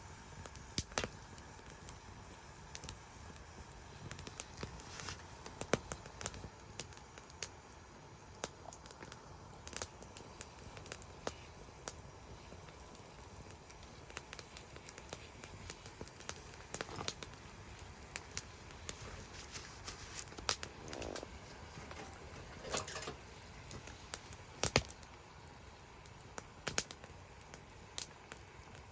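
Wood fire crackling in a secondary-combustion fire pit: sharp, irregular pops and snaps over a faint steady background, with a few louder pops in the second half.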